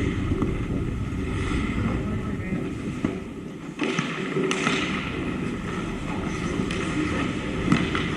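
Hockey rink game sounds: skates scraping on the ice, with sharp clacks of sticks and puck, and indistinct voices.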